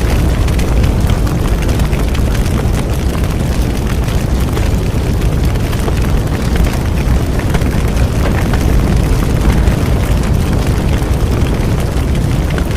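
Bonfire burning: a steady low rush of flames with a dense scatter of small crackles and pops.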